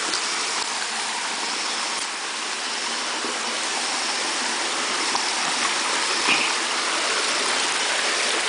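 Steady rush of water from the waterfall and its stream, an even, unbroken hiss.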